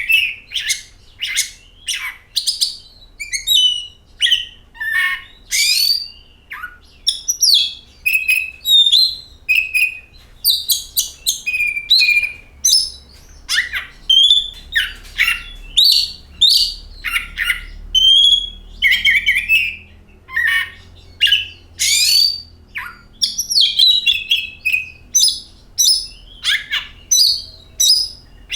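Oriental magpie-robin (kacer) singing a continuous, varied song of short whistled glides mixed with rougher chattering notes, phrase after phrase with barely a pause.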